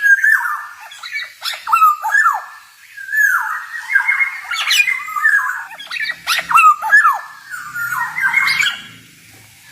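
Male black-naped oriole singing: a run of about six phrases, one every second or two, each mixing sweeping falling whistled notes with short sharp notes.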